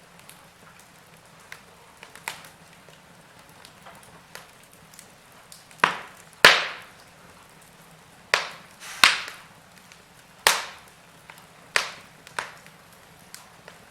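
Wood fire in a fireplace crackling: a faint steady hiss with scattered sharp pops and snaps, growing into a run of loud cracks from about six seconds in.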